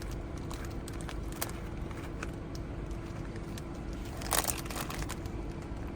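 Steady low hum of a stationary car with its engine idling, with scattered faint clicks and a brief rustle about four seconds in.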